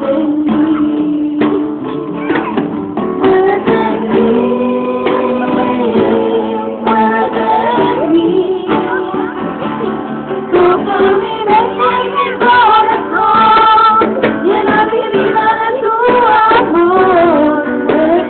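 Voices singing a song, with female voices most prominent, to guitar accompaniment.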